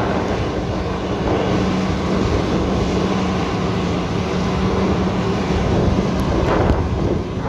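An engine running steadily with a constant low hum, under a wash of broad noise.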